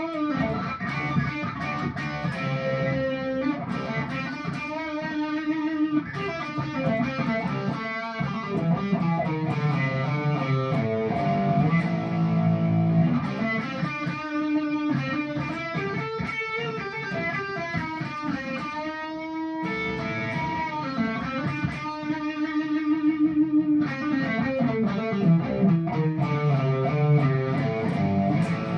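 Electric guitar played through a Marshall Origin 20 amp driven by a Joyo British overdrive pedal: a Firefly Lemon Drop LP-style guitar on its Seymour Duncan '59 PAF-style bridge pickup, playing chords and riffs with a crunchy British-style overdriven tone.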